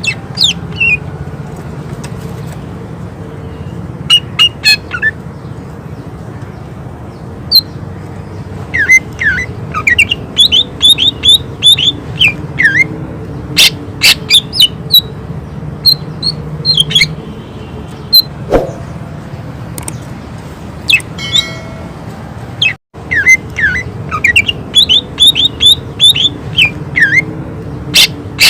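Cucak ijo (greater green leafbird) singing in rapid volleys of short, sharp whistled notes, the 'tembakan' (shooting) song of a bird in full voice. The volleys are broken by brief pauses, over a steady low background hum.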